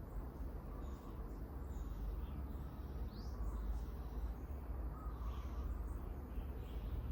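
Small birds chirping in faint, scattered short calls, with one clearer rising chirp about three seconds in, over a steady low rumble.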